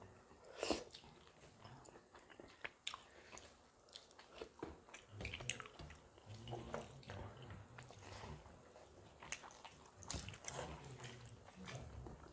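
Close-miked chewing and mouth sounds of people eating rice with fish curry by hand, with scattered short clicks; the sharpest comes just under a second in.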